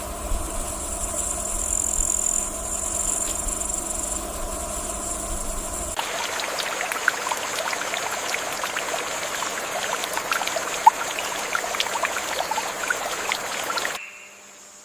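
Forest ambience: a steady high-pitched insect drone with some low rumble, then, after an abrupt change about six seconds in, a denser hiss scattered with many small chirps and clicks, which drops away abruptly near the end.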